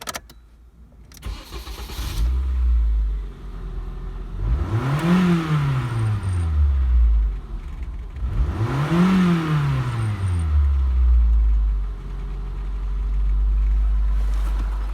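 Nissan SR20DE 2.0-litre four-cylinder petrol engine started about two seconds in, settling to idle. It is then revved twice, the pitch rising and falling each time, and returns to a steady idle.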